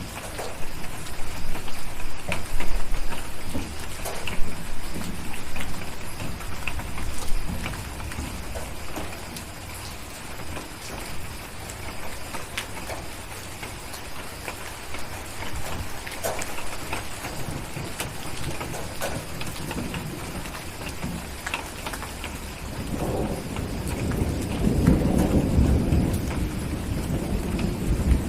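Steady rain with scattered sharp crackles, typical of a fireplace burning alongside it. Low thunder rumbles in the first few seconds, and a louder roll of thunder builds near the end.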